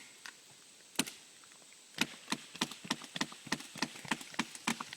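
Wood fibres in a partly cut tree trunk cracking and popping under the pull of the root ball, a faint single snap followed by a quickening run of sharp cracks as the trunk starts to give way.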